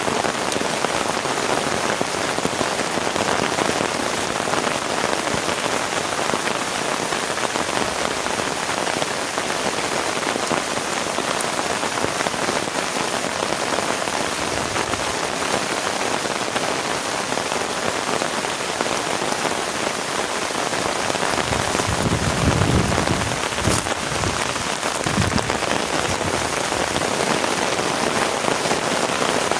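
Heavy rain falling steadily in a dense, even hiss, with a brief low rumble about three-quarters of the way through.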